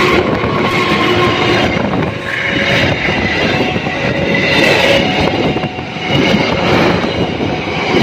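Diesel-hauled passenger train passing at close range: the locomotive goes by and then the coaches, with a loud rumble and wheels clattering on the rails.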